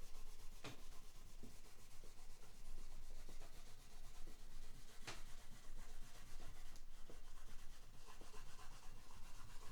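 Cloth rag rubbing along a bare guitar fretboard, wiping off excess fretboard oil, with a few light knocks.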